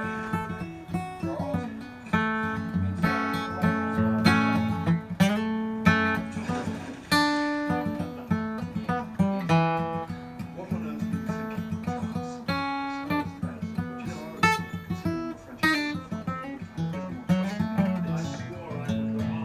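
Acoustic guitar playing a lively run of plucked single notes mixed with strummed chords.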